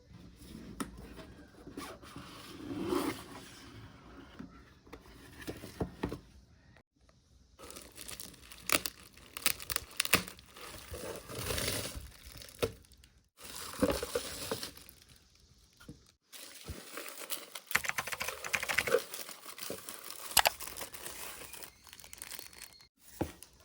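Packaging being opened by hand: plastic and paper wrappers crinkling and tearing in irregular bursts, with sharp crackles. A few abrupt silent breaks cut it into short stretches.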